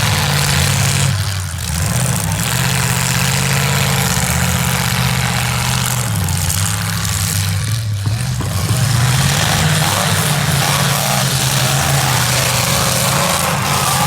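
V8 demolition derby car engines running, their notes stepping up and down as they rev, loud and unbroken.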